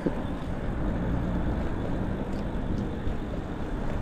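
Steady low rumbling noise, with no distinct events, of wind on the microphone and road and traffic noise while riding an e-bike on a windy day.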